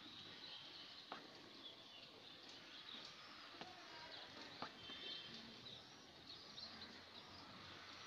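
Near silence: faint background hiss with a few distant bird chirps and a couple of soft ticks.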